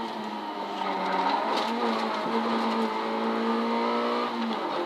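Citroën Saxo N2 rally car's four-cylinder engine heard from inside the cabin, running at a steady pitch along the stage with a few light clicks; the revs drop near the end.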